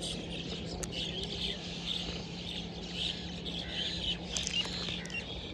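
Small birds chirping over and over, with a steady low hum underneath and a few light clicks.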